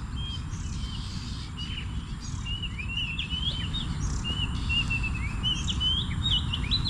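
Small birds chirping and trilling in quick repeated calls over a steady low rumble of outdoor noise.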